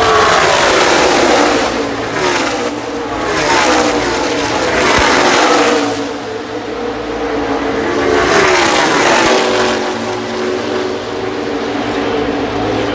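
A pack of NASCAR stock cars racing past at speed, their V8 engines coming through in waves, the engine pitch falling as each group goes by. The passes come near the start, about two seconds in, about four seconds in and again around eight seconds in, then settle into a steadier drone.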